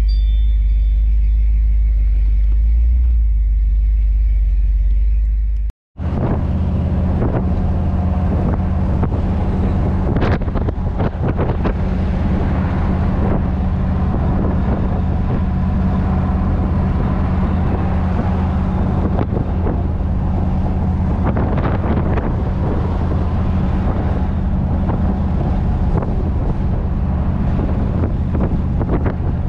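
C3 Corvette's V8 engine heard from inside the cabin: a deep low rumble at first, then, after an abrupt cut about six seconds in, the engine running steadily as the car cruises, with road and wind noise over it.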